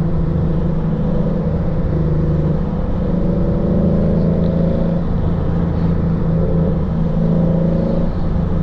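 Lexus RC F's V8 with a full-bolt-on exhaust droning steadily under light throttle while cruising, its pitch shifting a little now and then.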